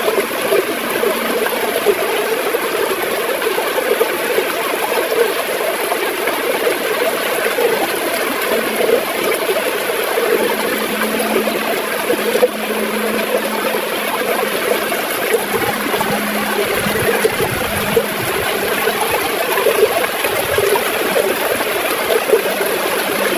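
River water gurgling and splashing as it flows, a steady rushing with a constant bubbling texture.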